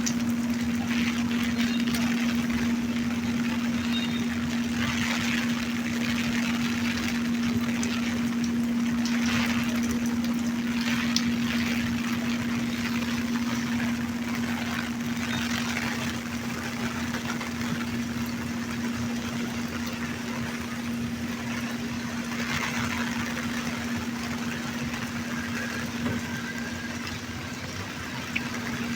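Steady rain falling, with a constant low hum running unchanged beneath it.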